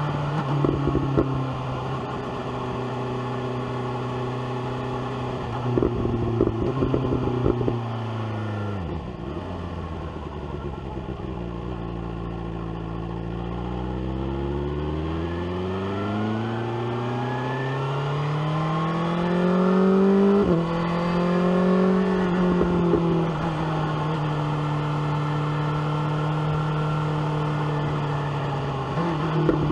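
BMW S1000R inline-four motorcycle engine on the road: it holds a steady note, then drops sharply as the rider rolls off and slows, runs low for a few seconds, then pulls up in a long rising rev to a gear change and settles at a steady cruise. A few short crackles come through at the start, around six seconds in and near the end.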